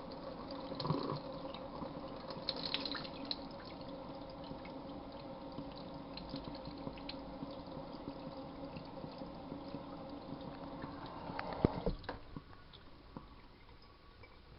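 Tap water running over chestnuts, a steady running sound with faint held tones, which stops about twelve seconds in after a few knocks.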